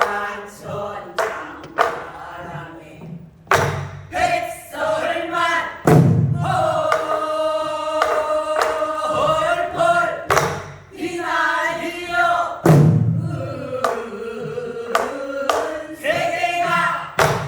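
A group singing Korean traditional song together while beating buk barrel drums: a few deep drum strokes and many sharp stick clicks on the drums under the voices.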